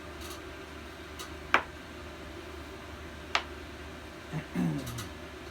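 Two sharp metallic clinks of hand tools on a small engine, about two seconds apart, over a steady low hum; a brief murmur of a voice near the end.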